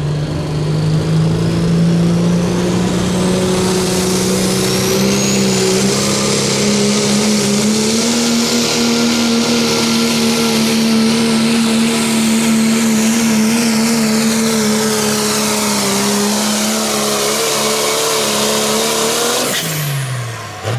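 A turbocharged diesel pickup engine runs at full throttle under heavy load while pulling a sled. Its revs climb over the first several seconds as a high whine rises with the turbocharger spooling up, and the revs then hold high. Near the end the revs drop quickly and the engine sound cuts off as the throttle is released.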